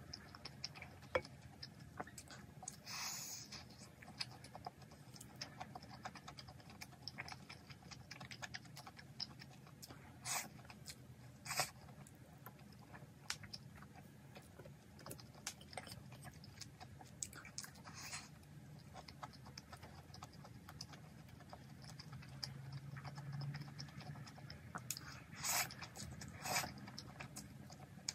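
Close-up eating sounds of Carbo Buldak instant fried noodles and sausage: steady chewing with small clicks of chopsticks against a bowl. A handful of short, louder sounds stand out, several seconds apart.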